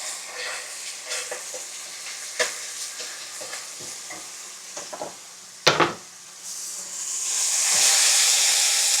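Onions and cooked shrimp frying in a pan, stirred with a utensil that clicks and scrapes against the pan, with one sharp knock about six seconds in. The sizzle swells loud over the last couple of seconds.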